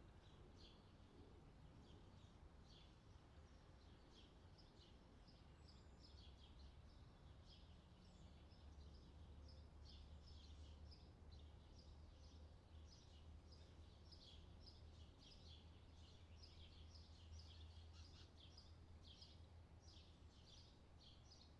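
Faint added outdoor summer ambience: many small birds chirping in quick, overlapping calls, busier in the second half, over a low steady rumble.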